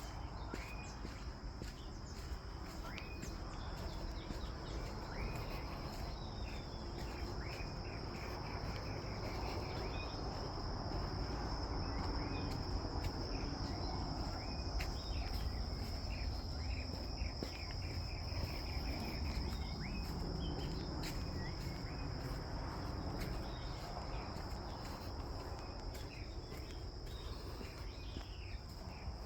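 Steady high-pitched drone of crickets or similar insects in forest, with short rising bird chirps now and then over a low rumble.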